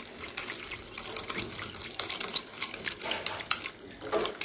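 Spoon clicking rapidly and irregularly against a small bowl while hand-whipping instant coffee, sugar and water into a foam.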